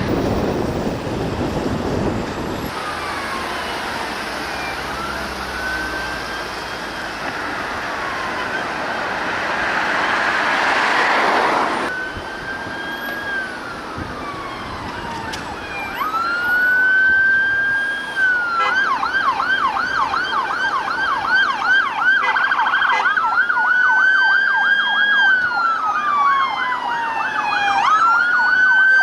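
Several police sirens sounding together in a slow rising and falling wail, switching to a fast yelp about two-thirds of the way through and then back to the wail.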